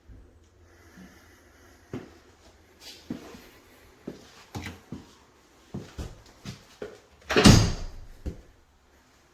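Scattered knocks and clatters of things being handled, with one much louder clatter about seven and a half seconds in.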